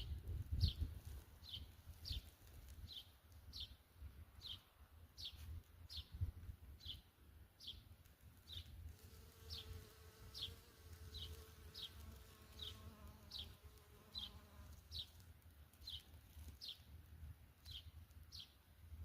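A small bird repeating a short, high, falling chirp at an even pace of about three calls every two seconds. A faint droning hum joins for a few seconds midway.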